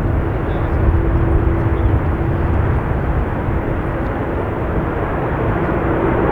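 Steady rumble of jet airliner engine noise at an airport, mixed with wind buffeting the microphone, with a faint steady hum held through it.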